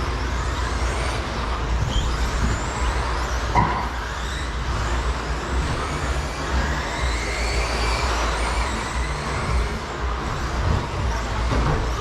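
Electric RC stadium trucks with 13.5-turn brushless motors racing on the track: several high motor whines rising and falling in pitch as they accelerate and brake, over a steady rumble, with a sharp knock about three and a half seconds in.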